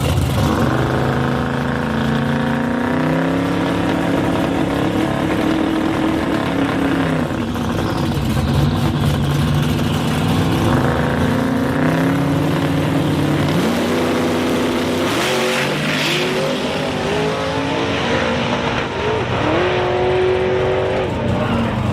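Twin-turbo big-block engine of a 1956 Chevy Bel Air drag car running and revving, its pitch holding for stretches and stepping up and down.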